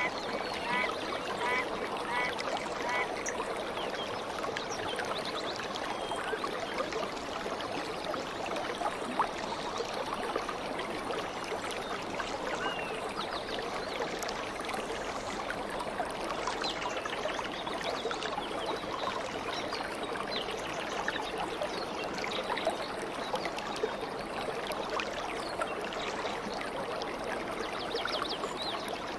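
A stream flowing and trickling steadily, with bird chirps scattered over it. In the first few seconds one call is repeated a few times a second.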